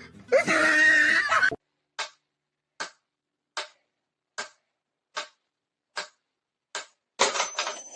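Metronome ticking steadily, seven sharp ticks about 0.8 seconds apart. A brief voice-like sound comes before the ticks, and a short rustling burst of noise follows near the end.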